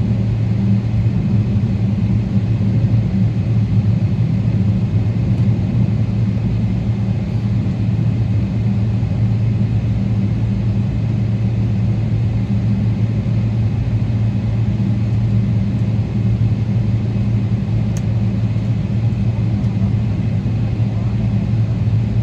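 Steady low drone of a Boeing 777-300ER's GE90 engines at ground idle, heard from inside the cabin, with a constant rumble and no build-up of power.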